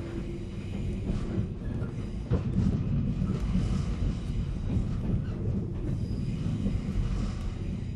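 Running noise inside a 485-series electric motor car (MoHa 485-3054) on the move: a steady low rumble from the wheels and bogies, with scattered clicks from the rails.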